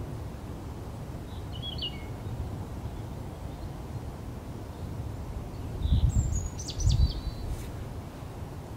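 Wind rumbling on the microphone, gusting louder twice in the second half. Small birds give a few short high chirps, once near the start and again about six seconds in.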